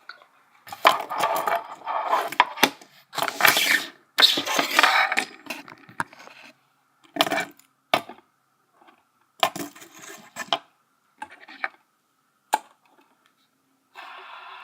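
Fidget spinners clattering and clicking against a wooden dresser top as they are handled and set down: a run of rattling knocks in the first few seconds, then scattered single clicks. A steady whirring hum comes in near the end.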